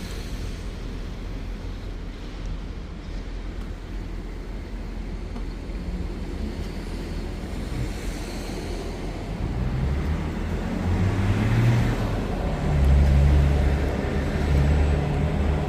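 Car driving, with engine and road noise heard from inside the cabin; the low rumble grows louder about ten seconds in.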